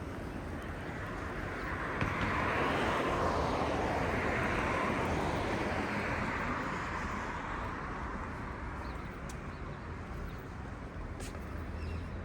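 A road vehicle passing on the street: its tyre and engine noise swells for a few seconds and then fades away, over a steady low traffic rumble.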